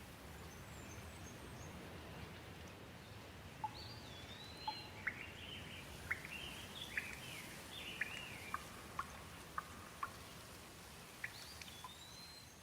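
Gentle steady rain, with a bird calling over it: a run of quick rising and falling whistled notes from about four seconds in, then a string of short chirps about twice a second, and another call near the end.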